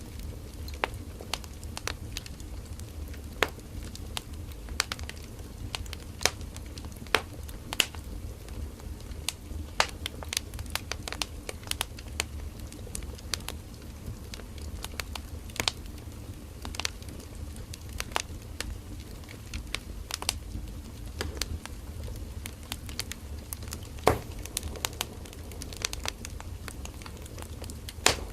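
Wood fire burning: a steady low rumble of the flames with irregular sharp crackles and pops of burning firewood, a few each second, one louder pop near the end.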